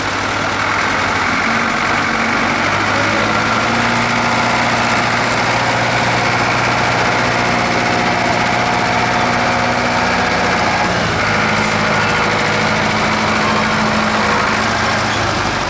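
Tractor engine running loud and steady, its pitch shifting slightly about eleven seconds in.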